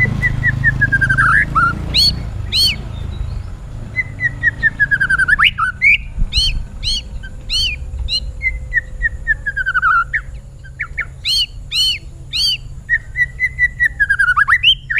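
White-rumped shama (murai batu) singing loudly and continuously. Its song alternates falling runs of rapid whistled notes with quick series of sharp, arched chirps.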